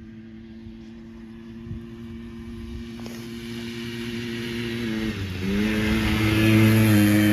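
Quadzilla Stinger 100 quad bike's small two-stroke engine running at steady revs and getting louder as it comes closer. About five seconds in the revs dip briefly, then pick up again.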